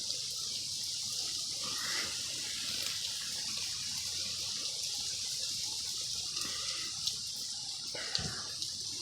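Steady rain falling, a continuous hiss with scattered small drip ticks.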